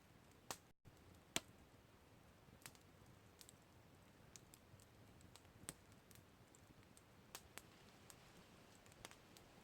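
Wood campfire crackling faintly: scattered sharp pops and snaps over a low steady hiss, the loudest pop about a second and a half in.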